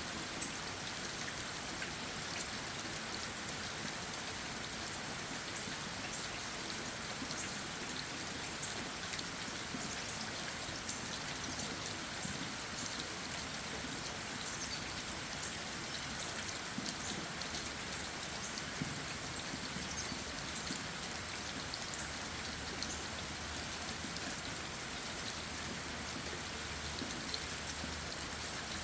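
Steady rain falling on leaves and ground, a dense patter of individual drops tapping over an even hiss.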